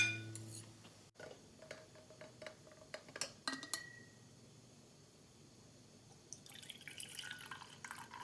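A few light clinks and taps of glassware, one with a brief faint ring, then from about six seconds in a soft hiss of running water.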